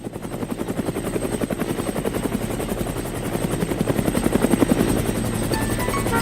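A rapid, steady mechanical pulsing of about ten beats a second, like a rotor or motor sound effect, growing slightly louder toward the middle.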